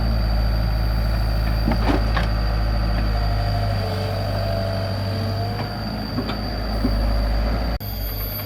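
Komatsu PC75 mini excavator's diesel engine running steadily with a whine over it and a few sharp knocks. The sound drops abruptly near the end.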